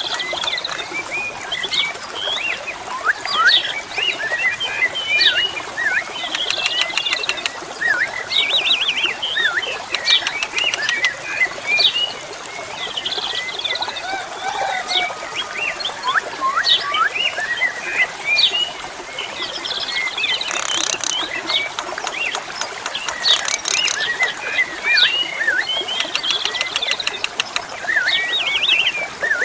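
Asian pied starlings (jalak suren) singing: a busy, unbroken run of overlapping whistles, chirps and short buzzy notes, with water trickling underneath.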